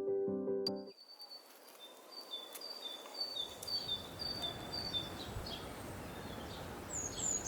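Background music cuts off about a second in. Then a small songbird sings a high two-note phrase over and over, a higher note then a lower one, over a steady outdoor background hiss, with a few downward-sliding calls near the end.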